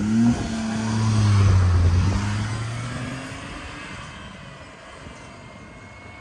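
Tata Tiago's three-cylinder petrol engine under full throttle as the car launches from a standstill, its note swelling over the first two seconds and then fading as it pulls away.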